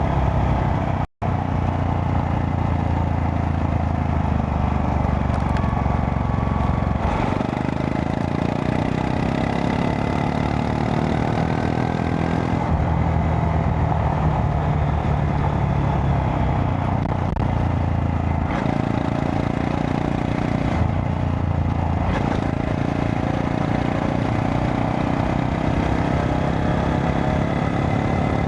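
Honda Monkey 125's single-cylinder four-stroke engine running on the move, its note shifting in pitch several times with gear and throttle changes. The sound cuts out for an instant about a second in.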